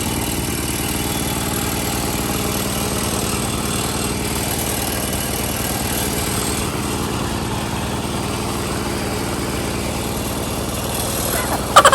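A small engine idling steadily. Near the end comes a sudden loud sound, followed by fast pulsing that fades away.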